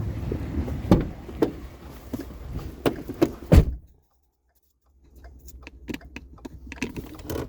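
A string of knocks and clunks over a low rumble as a treadmill is handled, the loudest clunk just past the middle. The sound then drops out completely for about a second before lighter clicks and knocks resume.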